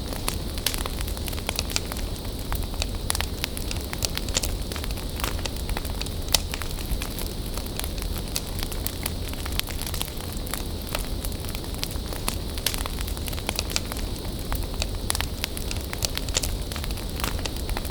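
Wood bonfire burning: a steady hiss with a low rumble underneath and many sharp crackles and pops.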